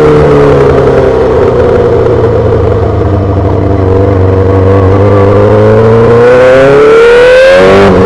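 2008 Yamaha R6 inline-four through a full SC-Project exhaust, dropping in pitch as the bike slows over the first few seconds, then pulling up through the revs. Near the end the note breaks off briefly and picks up again lower, as on a gear change.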